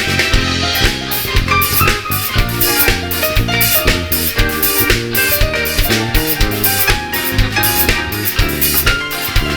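A band playing an instrumental passage: a drum kit keeping a steady beat, with snare and bass drum hits, under bass and other pitched instruments.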